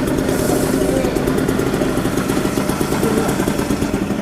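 Two-stroke moped engine idling steadily with a rapid, even firing beat, and a brief hiss about half a second in.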